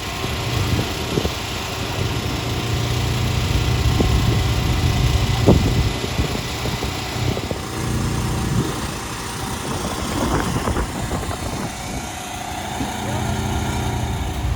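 An engine idling with a steady low hum, with a few short knocks in the first half.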